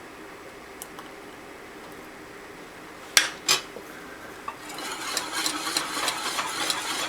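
Whisk knocking twice against a pot, then whisking steadily in the thickening custard from about halfway through, with rapid clicking and scraping against the pot that grows louder toward the end.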